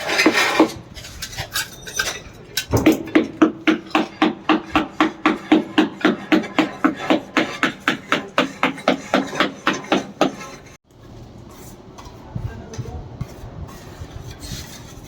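Hammer blows in rapid, even succession, about four a second for roughly seven seconds, each strike with a short ring, during balcony tile work. Quieter scraping and clinking follow.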